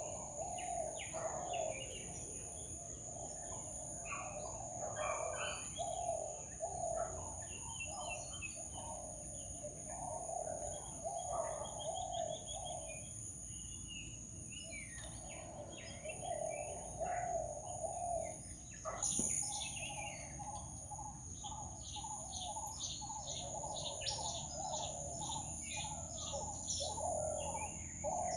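Birds calling: runs of low repeated notes and quicker high chirps, over a steady high-pitched insect drone. A brief click about two-thirds of the way through.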